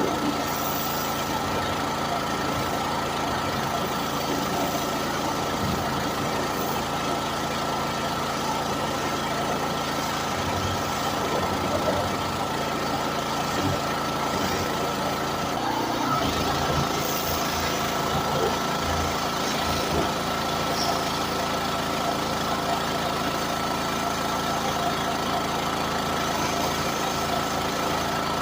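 Pressure washer running steadily: a continuous engine drone under a dense spray hiss, with a steady high whine.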